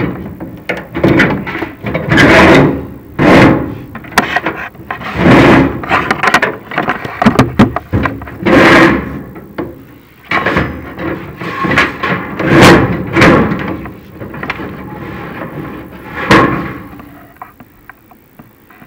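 Repeated scraping and knocking as a chimney inspection camera is fed down the sheet-metal flue of a prefabricated fireplace, rubbing and bumping against the pipe walls. The sounds come about once a second, with sharp clicks between them, and thin out near the end.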